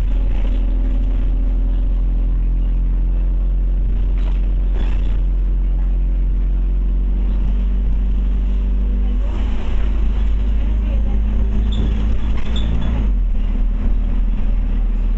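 Scania OmniCity bus engine heard from on board, running with a steady low drone. About nine seconds in the engine note shifts and the road and rattle noise grows louder.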